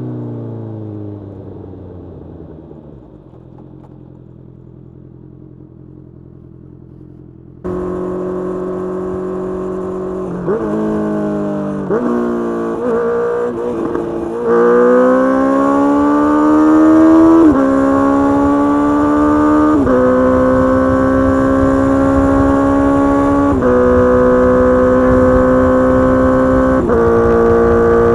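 Honda CBR650R inline-four running through a Mivv GP Pro full-system exhaust. The engine note falls as the bike slows and drops to a quieter low running note. Then it is abruptly loud again, accelerating through several gears with the pitch rising and dropping at each upshift, and settles into a steady high-speed cruise.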